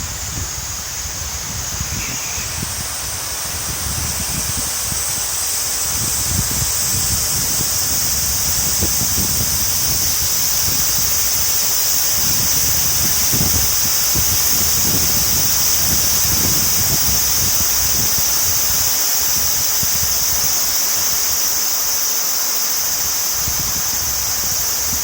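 Rain-swollen river in flood, its fast current making a steady rushing noise with a strong hiss, while irregular low gusts of wind buffet the microphone.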